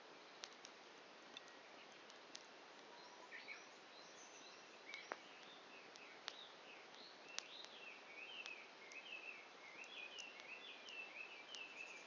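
Wood campfire crackling, with sharp pops every second or so. A small bird sings a rapid run of chirps from about three seconds in, growing busier through the second half.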